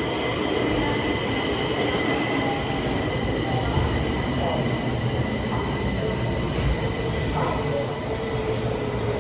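Stockholm Metro train running on the track: a steady low rumble of wheels and car body, with a high steady whine riding over it.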